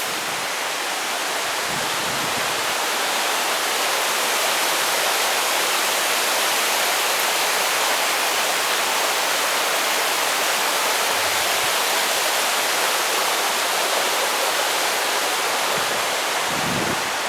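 A little mountain brook running over rocks: a steady rush of water that swells slightly about three seconds in, then holds even.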